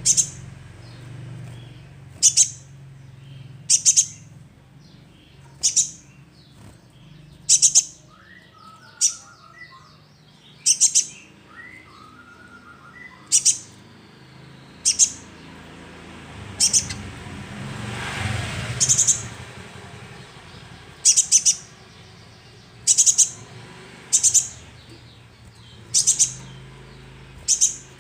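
Young sunbird calling: short, sharp, very high chirps repeated every second or two, some in quick pairs, with a few soft lower twitters about a third of the way through.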